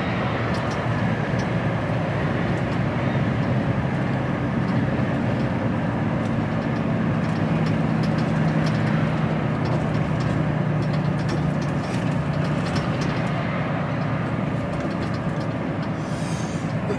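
HGV lorry's diesel engine and road noise heard from inside the cab while driving: a steady drone with a low engine hum that shifts a little in pitch.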